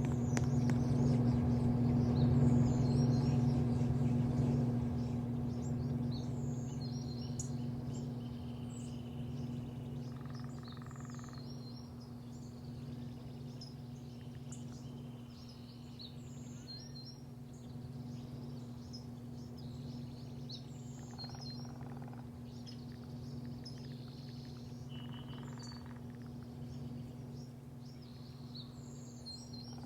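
Small birds chirping repeatedly in short high calls over a steady low mechanical hum, which is louder for the first few seconds and then settles lower.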